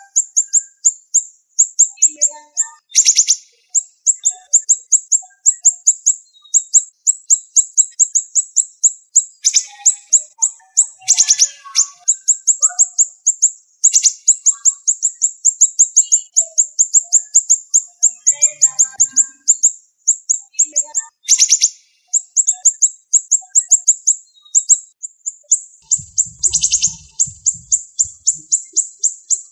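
Siri-siri songbird singing a fast, dense run of short, high, sharp chirps, several a second without pause, broken now and then by a louder rattling burst.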